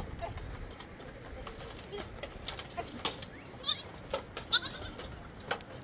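Goats bleating now and then, with a few sharp clicks in between.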